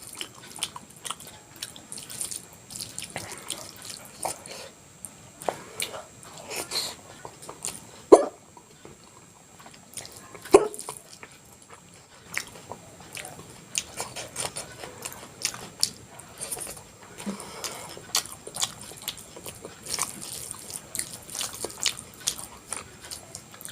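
Close-miked eating sounds of a soft, wet meal of vegetable khichdi, the wet chewing, lip smacks and mouth clicks coming in quick irregular bursts throughout, with two louder brief mouth sounds about eight and ten and a half seconds in.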